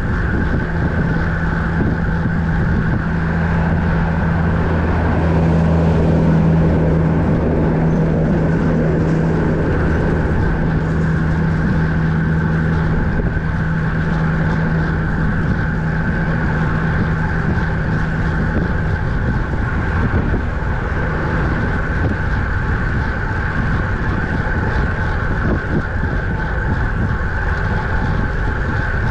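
Steady wind rush over a camera microphone on a road bike moving at speed along a highway. Under it runs a low steady hum that fades out about two-thirds of the way through.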